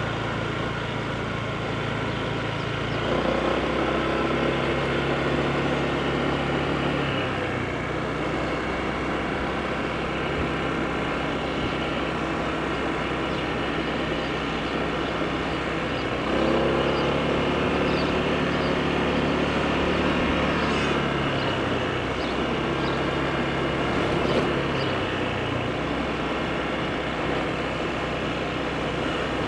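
Honda PCX scooter's single-cylinder engine running while riding, picking up in pitch and loudness twice, about three seconds in and just past halfway, and settling lower a few seconds after each.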